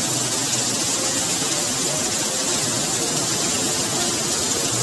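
Heavy rain pouring down steadily, an even hiss of a downpour.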